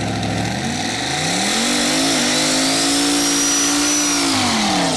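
Drag race car under full throttle on the strip. The engine pitch climbs steadily, dips briefly about two seconds in, holds high, then falls near the end. A faint high whine follows the engine's rise and fall.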